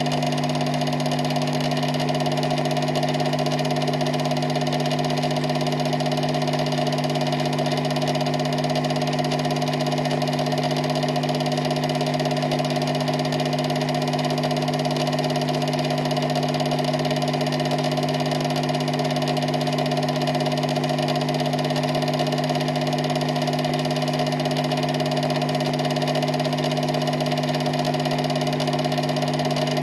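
A steady mechanical hum with a few fixed pitches, unchanging in level and pitch throughout.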